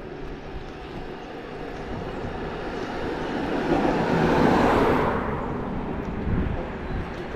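A vehicle passing by, getting louder over a few seconds, loudest about halfway through, then fading quickly.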